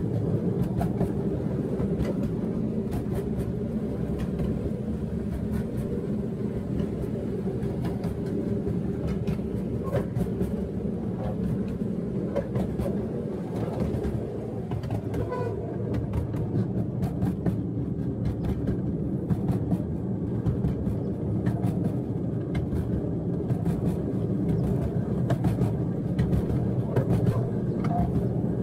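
Steel wheels of a 7.5-inch gauge riding car rumbling steadily along the track, heard from aboard, with frequent clicks as the wheels cross rail joints.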